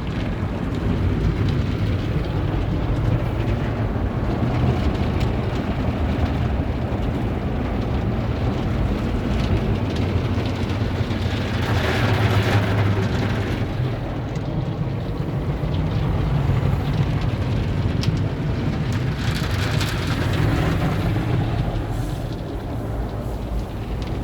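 Tunnel car wash equipment working over a vehicle, heard from inside the car: a steady low rumble with a hiss that swells twice, about halfway through and again near the end.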